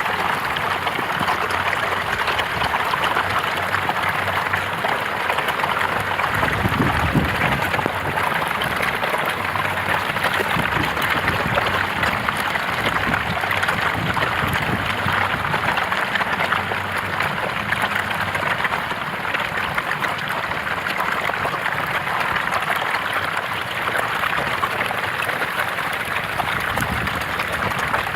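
Running water, like a stream or river, rushing steadily.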